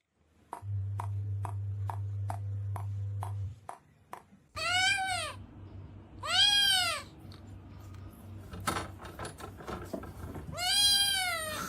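A domestic cat meowing three times, each meow rising and then falling in pitch, the last near the end. Before the meows, for the first few seconds, there is a steady low hum with regular ticks.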